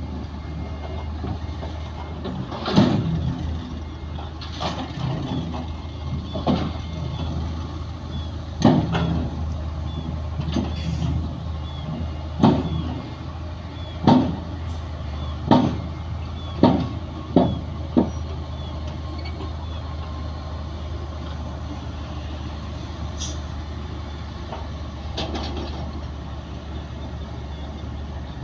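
Bulldozer's diesel engine running steadily at work, with a series of loud sharp metallic clanks about every one to two seconds for most of the first two-thirds; then only the steady engine is heard.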